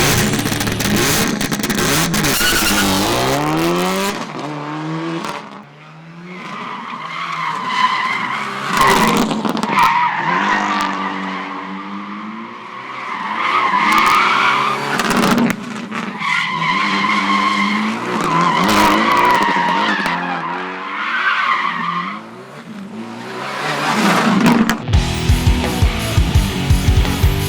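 Tyres squealing in long drifts, with an engine revving up and down between and under the squeals. Rock music plays at the start, and the music returns a couple of seconds before the end.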